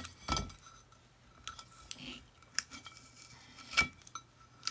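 Light clinks and knocks of a terracotta clay saucer being handled, about five separate taps with a faint ring after each, the loudest a little before the end.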